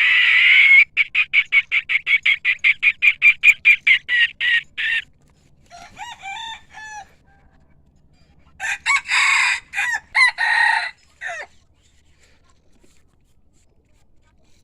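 Rooster calls. A held crow opens, followed by a long run of rapid short cackling notes, about six a second. Softer lower calls come around six seconds in, and another loud burst of calls follows near nine seconds.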